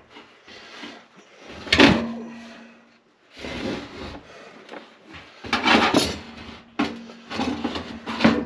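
Parts of a furnace blower assembly being handled and fitted on a workbench: irregular clunks and scraping, with one sharp knock about two seconds in that rings briefly.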